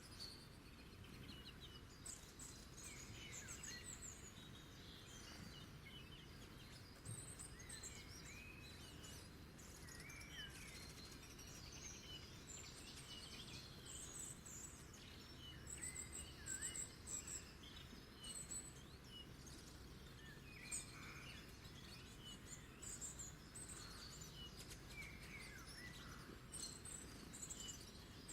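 Faint birdsong: several small birds chirping and twittering in short high calls and quick trills, over a steady low background rumble.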